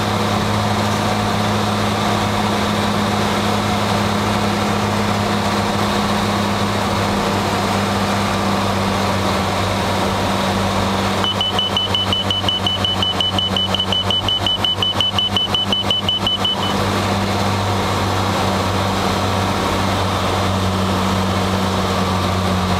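Cessna 182's piston engine and propeller droning steadily in the cockpit. About halfway through, a high rapid beeping tone sounds for about five seconds and then stops, matching the 3 kHz dots of an ILS inner marker beacon.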